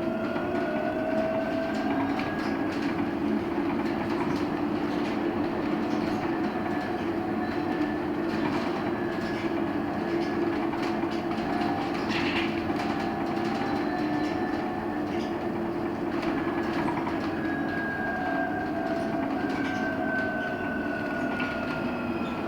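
LiAZ-6274 electric bus under way, heard from inside the cabin: the electric traction drive's whine in several tones that slowly rise and fall in pitch with speed, over steady road and tyre noise and light cabin rattles.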